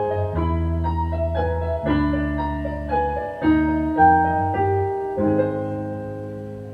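Piano playing slow held chords over low bass notes, a new chord about every second or so, slowly dying away: the instrumental ending of a song.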